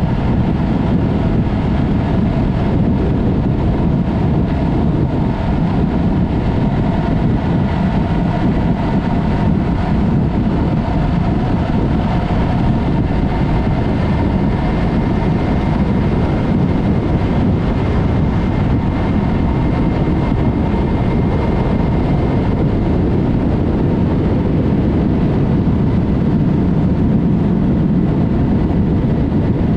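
Yamaha MT-03 motorcycle with a Mivv exhaust cruising at a steady speed, its engine running evenly under heavy wind rush on the microphone.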